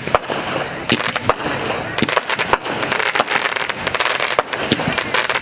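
Fireworks display: dense crackling with many sharp bangs of bursting shells, several a second.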